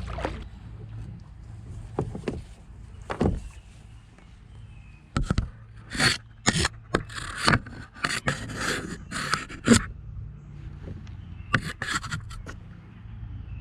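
Handling noise from a GoPro action camera being adjusted on its mount: irregular scrapes, knocks and clicks, thickest through the middle of the stretch, with a shorter cluster near the end.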